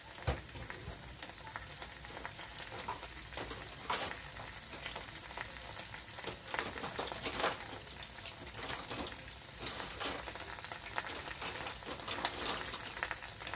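Sliced onions frying in oil in a skillet, sizzling steadily with scattered crackles and pops.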